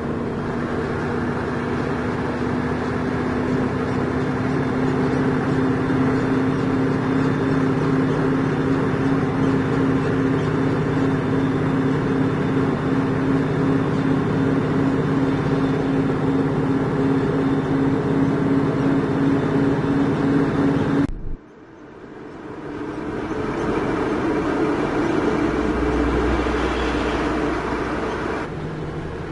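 A heavy diesel engine running steadily. The sound cuts off abruptly about 21 seconds in, then a second stretch of engine sound builds up with a deep low rumble near the end.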